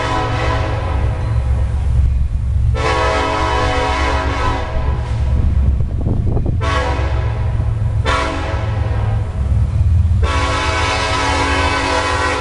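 Union Pacific freight locomotive's multi-chime air horn sounding a series of long blasts, each about one and a half to two seconds long with short gaps between, over the steady low rumble of the passing locomotive and train.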